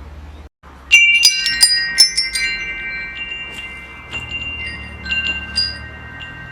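Metal wind chimes ringing: a quick cluster of strikes about a second in, then scattered single strikes, each tone ringing on long after it is struck. The sound cuts out briefly just before the first strikes.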